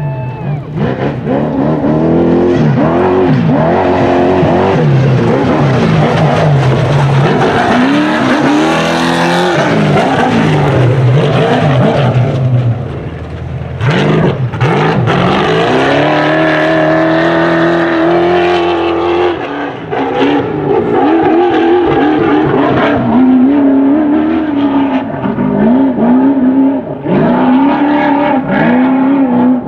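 T1 trophy truck engine revving hard, its pitch rising and falling again and again as the throttle comes on and off, with a short drop in level about halfway through.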